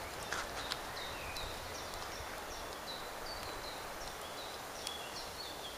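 Outdoor ambience: a steady hiss of background noise with a small bird chirping repeatedly, short high notes that drop in pitch, about three a second.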